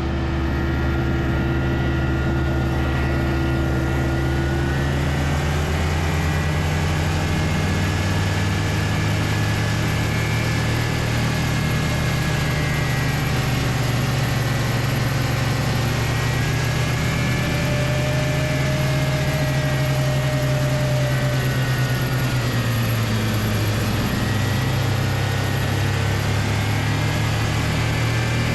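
Snowmobile engine running steadily, its pitch drifting slowly up and down as the speed changes.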